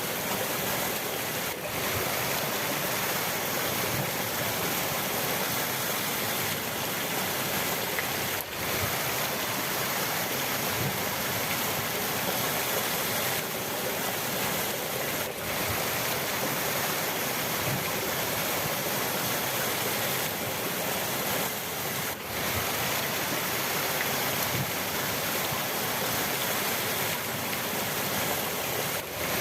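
Steady rushing of flowing river water, with a brief dip in level about every seven seconds.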